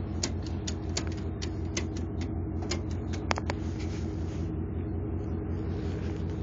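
A vehicle engine idling steadily with an even low pulse, with scattered sharp clicks over it.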